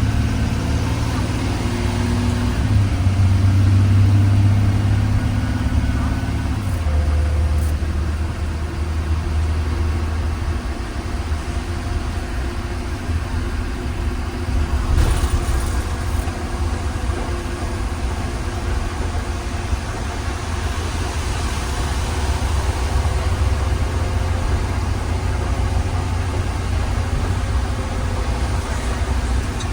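2020 Blue Bird Vision school bus running under way, heard on board: a steady low engine and drivetrain drone. The engine note changes about six seconds in, and there is a brief clatter about fifteen seconds in.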